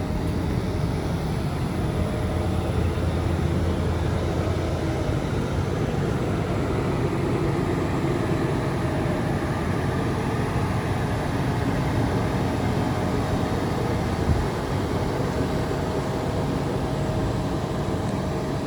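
1958 Cadillac Coupe de Ville's 365 cubic-inch V8 idling steadily, with one brief thump about three-quarters of the way through.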